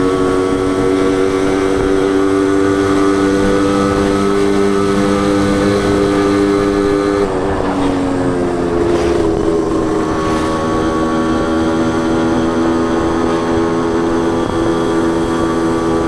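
Suzuki Wolf 125's two-stroke single-cylinder engine and exhaust running steadily under way. The engine note drops in pitch about seven seconds in, then holds steady again a little lower.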